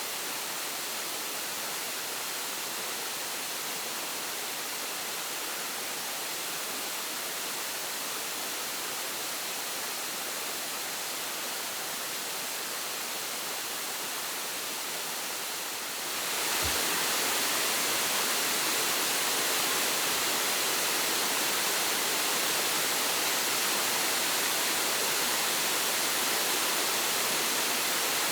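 Waterfall rushing, a steady wash of falling water that gets louder and brighter a little over halfway through.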